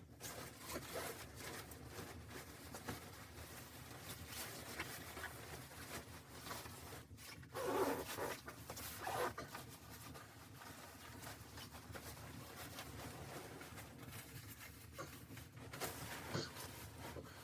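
Rustling and scraping handling noises, with two louder scrapes about 8 and 9 seconds in.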